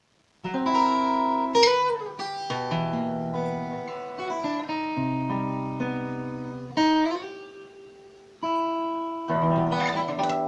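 Solo acoustic guitar playing a slow piece of ringing chords and single notes, with a few sharp strummed chords. The sound fades away about eight seconds in, then the next chord comes in.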